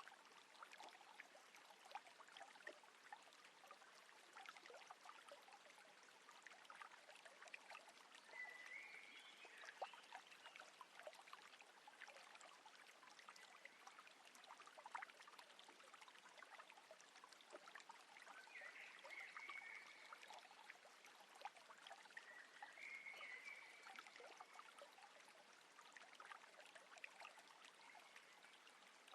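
Faint water trickling and lapping against a boat, with small splashes and ticks. A few brief faint chirps come through now and then.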